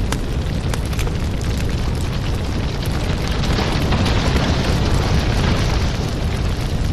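Firewood burning: a steady low rumble of the fire with scattered sharp crackles and pops from the wood.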